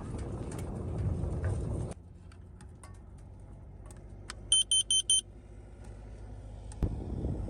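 Four quick, high-pitched electronic beeps in a row, each the same pitch, a little past the middle.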